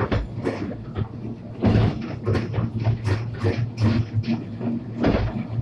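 Narrow-gauge park railway train running along the track, its carriage rattling and knocking irregularly over a steady low rumble.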